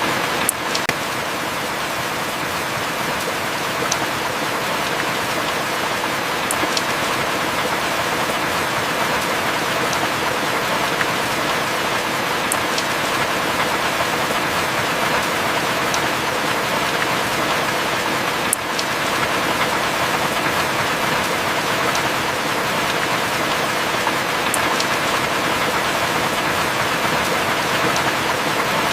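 Heavy rain falling steadily, with a sharp drop tick now and then.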